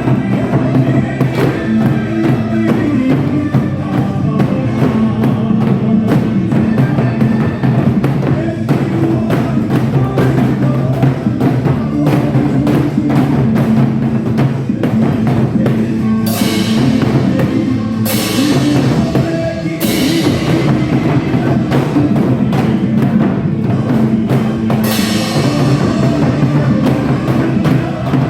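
Janggu (Korean hourglass drum) struck in a fast, dense gogo-janggu rhythm over a trot backing track with a steady bass and drum beat. Cymbal crashes come in a few times in the second half.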